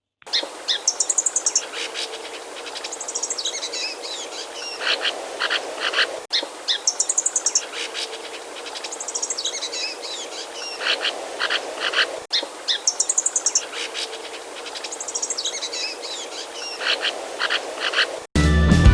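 Sparrows chirping: quick runs of short, high, sharp chirps over a faint steady hum. The same six-second recording plays three times in a row.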